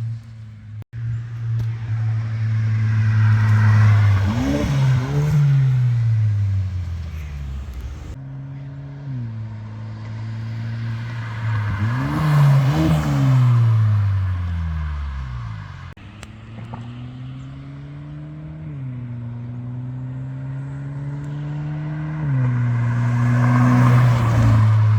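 Hyundai Sonata N Line's turbocharged four-cylinder running through a custom exhaust with straight-through mufflers. It drones steadily, then rises and falls in pitch several times as it is revved and let back down, with a few sudden drops in pitch.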